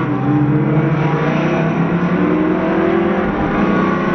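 Twin-turbo Camaro SS V8 accelerating hard, its engine note climbing steadily in pitch, then dropping back about three seconds in and starting to climb again.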